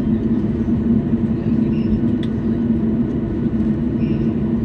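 Steady droning hum inside the cabin of a Boeing 737-800, its CFM56 engines running as it taxis after landing, with a few faint clicks.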